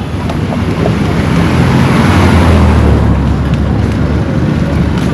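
Road traffic: a motor vehicle passing close by, its low engine and tyre rumble swelling to its loudest about two to three seconds in.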